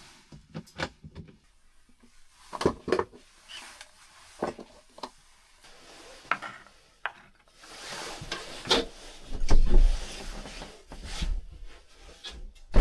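Gear being handled and moved: scattered knocks, scrapes and rubbing, with a louder low rumble about nine to ten seconds in.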